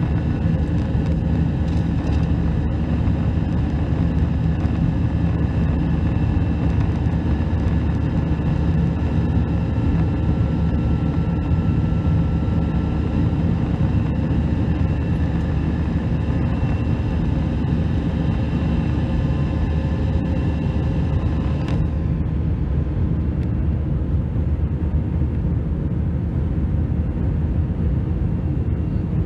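Airbus A319's jet engines running steadily as heard inside the cabin: a loud low drone with several steady higher tones over it. About two-thirds of the way through, the higher tones and hiss drop away while the low drone carries on.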